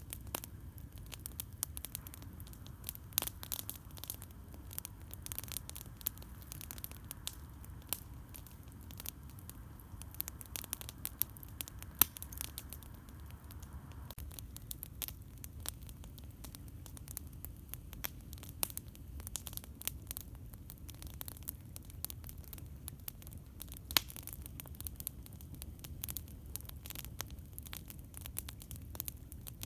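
Campfire crackling, with irregular sharp pops and snaps over a steady low rumble; a faint hiss underneath stops about halfway through.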